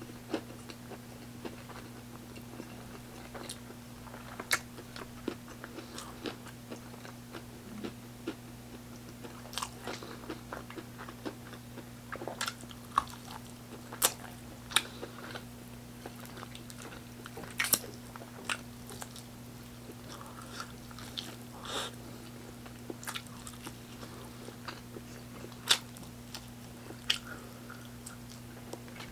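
Close-up sounds of a person biting and chewing crispy fried chicken, with irregular sharp crunches and wet mouth clicks.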